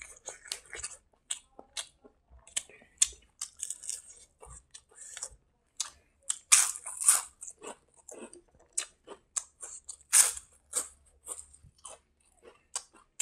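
Close-miked chewing of a mouthful of rice and side dishes eaten by hand: a run of quick wet smacks and clicks of the mouth, with louder bites about seven and ten seconds in.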